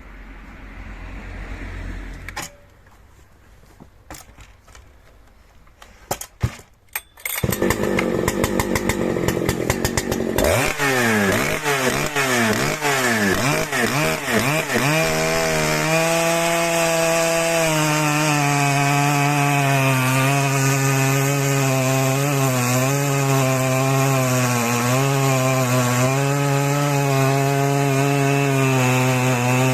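Two-stroke chainsaw starting after a few sharp clicks about six seconds in. It catches, revs up with rising pitch, then runs steadily at high revs with its pitch wavering slightly.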